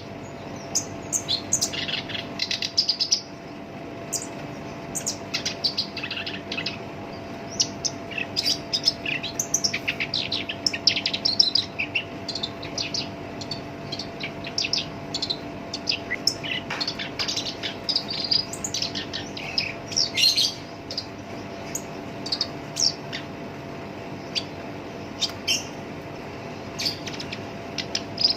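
Black-browed reed warbler singing a harsh, rapid song of short chirps and rasping notes, delivered in runs with brief pauses.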